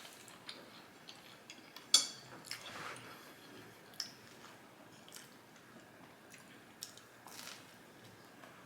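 Close-up eating: quiet chewing, broken by a few sharp clicks, the loudest about two seconds in.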